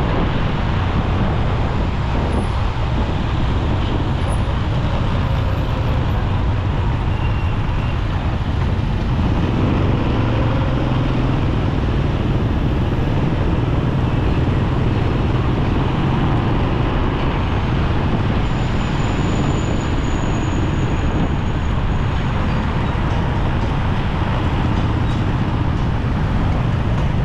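Steady road traffic noise heard from a motorcycle riding through city traffic: vehicle engines and tyre noise blended into a constant rumble with no breaks.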